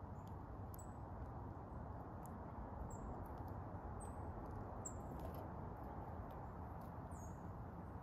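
About five short, high, thin bird chirps, a few falling slightly in pitch, with scattered faint ticks of a small bird pecking at seed, over a steady low outdoor hiss.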